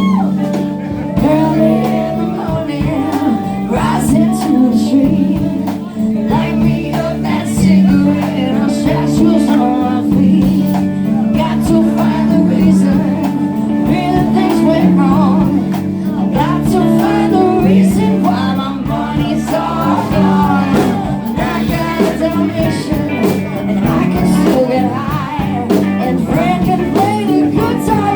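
Live band playing a rock jam: electric guitar lines over bass and drums.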